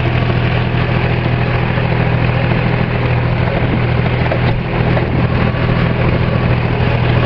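Farm tractor engine running steadily at a constant speed, a loud, even hum with no change in pitch.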